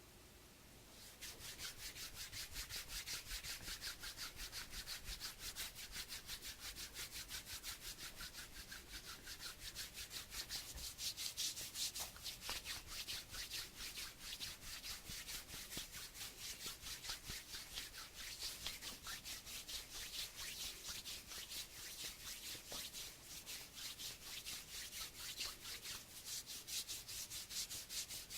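Hands rubbing together in quick, even back-and-forth strokes, a steady dry swishing that starts about a second in.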